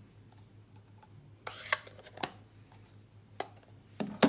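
A few light knocks and clicks of craft supplies being handled and set down on a tabletop, with a brief rustle about one and a half seconds in and two quick knocks near the end.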